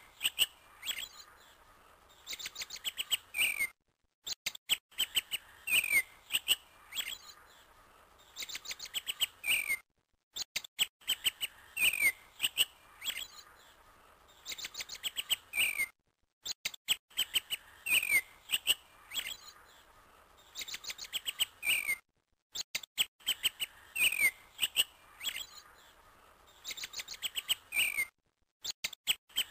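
Looped recording of small birds chirping: quick falling chirps and rapid ticking trills, the same pattern repeating about every six seconds with a brief silent gap between repeats.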